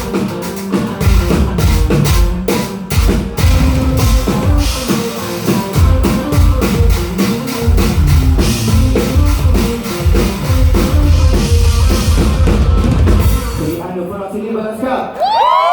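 Live band playing with a full drum kit driving the song, kick drum and snare prominent, until the music stops about 14 seconds in. Near the end the crowd breaks into high-pitched screaming and cheering.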